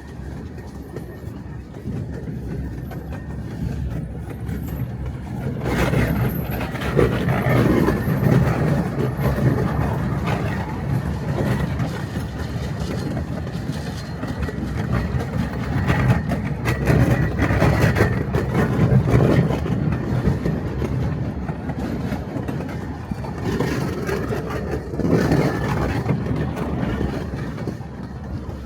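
Miniature railway train running on its track: a steady rumble with irregular clatter, swelling louder twice.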